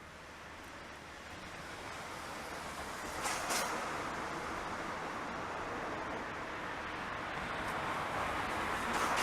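Train approaching on the line, its running noise growing steadily louder, with a couple of sharp clicks about three and a half seconds in and another near the end.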